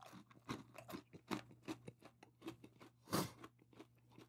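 A person chewing crunchy coated popcorn with the mouth close to the microphone: a run of irregular crisp crunches, with one louder crunch a little after three seconds in.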